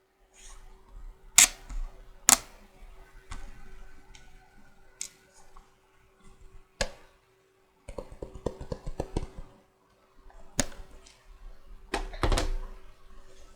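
Magnetic checkers pieces clacking and tapping: several sharp single clacks, with a quick run of small taps about eight seconds in.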